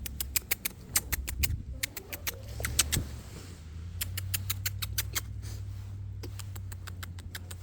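Goat nibbling and chewing close up: a string of sharp, irregular clicks and crunches in small clusters, over a low steady hum.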